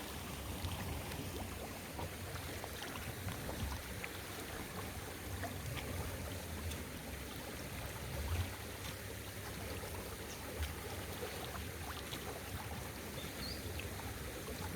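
Flooded creek water rushing steadily, with a low rumble underneath and a few faint knocks.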